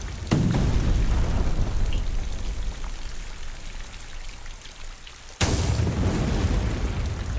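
Sound-designed meteor-storm ambience: two sudden heavy booms, one just after the start and one about five and a half seconds in, each dying away in a long low rumble over a steady rain-like hiss.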